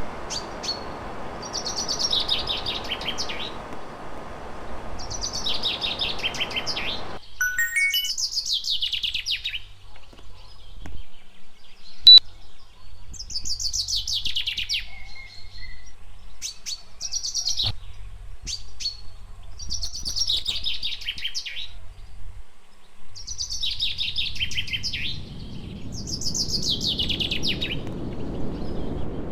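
A songbird singing the same short, descending trilled phrase over and over, about every three seconds. Under it is a steady rushing noise that cuts off suddenly about seven seconds in and comes back near the end, with a single sharp click about twelve seconds in.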